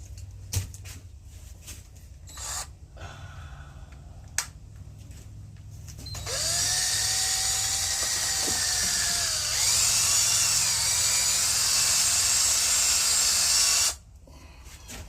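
Electric drill with a mixing paddle stirring a fresh batch of concrete and water in a bowl. It starts about six seconds in and runs for about eight seconds, its whine wavering in pitch and getting louder partway through, then stops suddenly. Before it there are a few light clicks and knocks.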